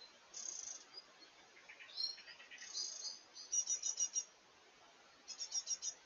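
Small woodland birds calling: a series of short high chirps, then two quick trills of about five notes each, a second or so apart, over faint forest background hiss.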